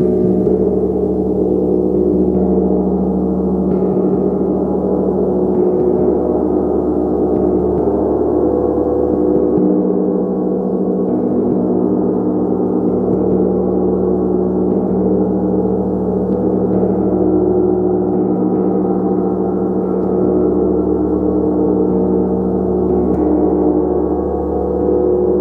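Gong played continuously, struck lightly every couple of seconds to keep up a steady, dense wash of many overlapping ringing tones.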